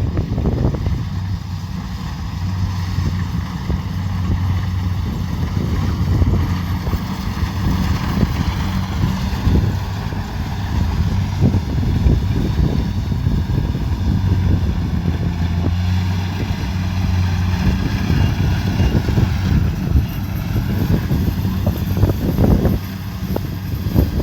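Kubota DC70 Pro combine harvester running steadily with a constant low engine hum, its note rising and falling slightly as it works through the rice.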